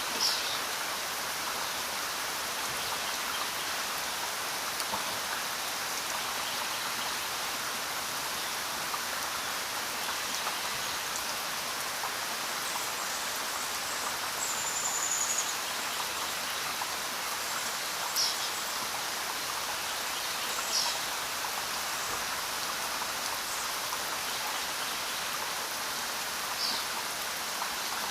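Steady rain falling on a road and surrounding forest, an even hiss of drops. A few short, faint, high-pitched chirps stand out now and then, one about halfway through and a few more in the second half.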